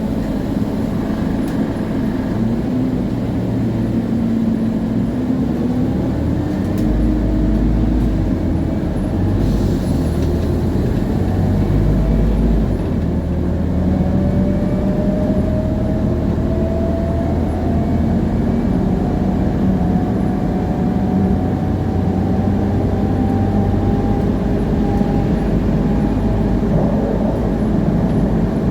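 Scania CN280UA city bus under way: its Scania DC9 five-cylinder diesel running, with the rear axle's gear whine coming up about halfway through as a thin tone that slowly rises in pitch as the bus gathers speed. The ZF Ecomat automatic gearbox itself stays quiet.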